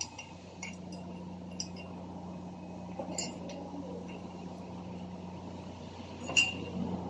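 A few scattered light metallic clinks, as of tools and small metal parts being handled, over a steady low hum; the loudest clink comes near the end.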